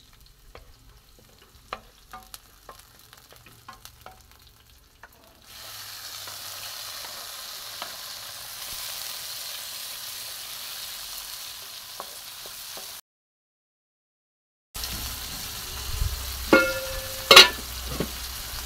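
Food sizzling in a pan on a charcoal jiko. The sizzle starts about five seconds in, after faint scattered clicks, and drops out to dead silence for a second and a half near the end. As it returns, a utensil knocks against the pan a few times, the loudest sounds.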